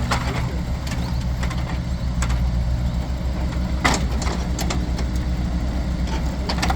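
A vehicle engine idling steadily, with a few sharp knocks over it, the loudest about four seconds in.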